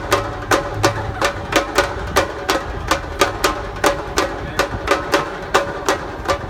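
Samba-reggae drum band playing: sharp, evenly spaced strikes about three a second over a steady low drum boom.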